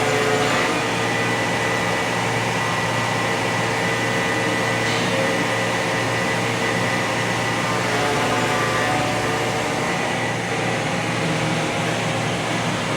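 Rexroth A10VO28 variable-displacement axial piston hydraulic pump running on a test bench after repair. It gives a steady whine of several fixed tones over a hum, with no change in speed.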